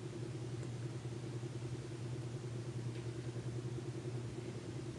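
Steady low hum over an even hiss from a running HHO (oxyhydrogen) electrolysis setup and its torch, drawing close to 30 amps.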